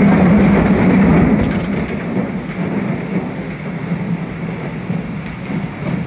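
Postojna cave train running along its rails through the cave: a loud, dense rumble of the moving cars with a steady low hum, easing a little about two seconds in.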